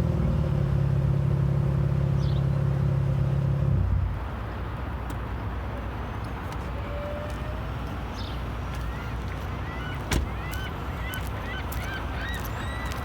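Chrysler 200C's 3.6-litre V6, with its muffler deleted and a MagnaFlow glass pack in place of the resonator, idling steadily through the straight-through exhaust, then stopping abruptly about four seconds in. After that comes a low steady background, with many short bird calls from about nine seconds on and a single sharp click near ten seconds.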